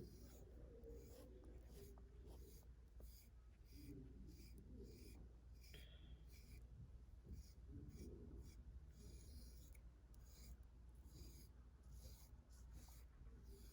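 A brush swept through a cat's fur in short, scratchy strokes, about two a second, faint.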